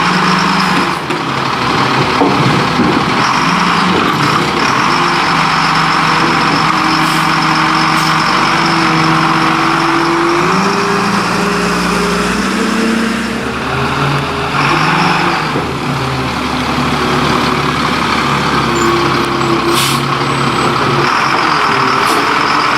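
Diesel engine of a Leach Curbtender rear-loader garbage truck running, its speed rising and falling several times. There are a few short hisses of air.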